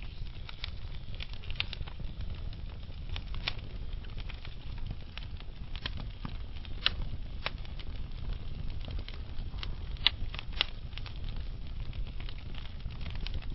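Logs burning in a fireplace: scattered sharp crackles and pops over a low, steady rumble, with the loudest pops about seven and ten seconds in.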